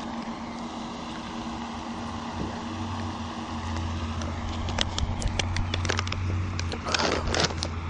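A steady low motor hum with held tones, growing stronger partway through, joined in the second half by a run of sharp clicks and two louder rustling bursts.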